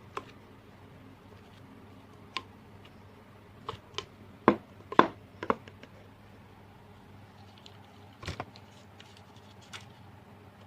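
Slime being squished and pressed by hand, giving scattered sharp clicks and pops, the loudest bunched in the middle.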